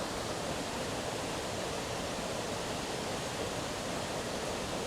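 Steady rush of a small twin waterfall pouring into a rocky pool.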